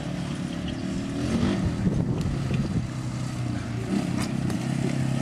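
A mud truck's 360 V8 running steadily. Its engine note wavers between about one and three seconds in, then settles.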